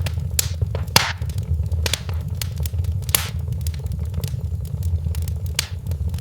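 Wood fire crackling in a fireplace: irregular sharp pops and snaps, a few louder ones spread through, over a steady low rumble.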